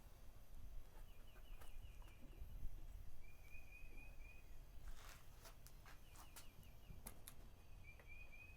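Faint bird calls: several short runs of quick, evenly spaced high chirps, with a few light clicks and taps in between.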